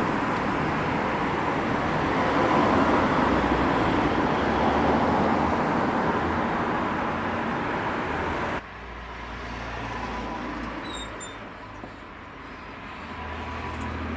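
A loud, steady rushing noise that cuts off abruptly after about eight and a half seconds, leaving a quieter outdoor background with a few faint high chirps.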